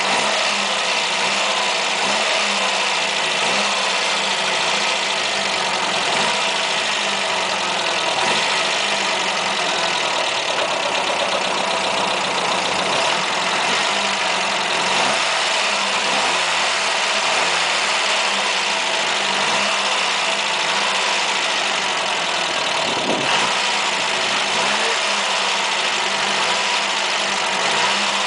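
1980 Ford Fiesta Supersport's engine idling steadily.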